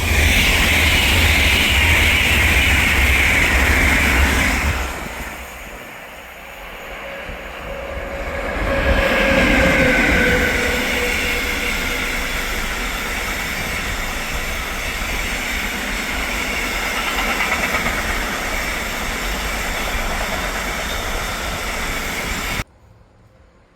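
A train passing close by at speed, a loud rumble for about five seconds that fades, then swells again with a steady high whine and runs on until it cuts off suddenly near the end.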